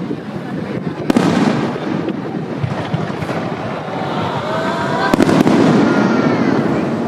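Aerial fireworks display: sharp bangs of shells bursting, one about a second in and two in quick succession about five seconds in, over continuous crackling and rumbling.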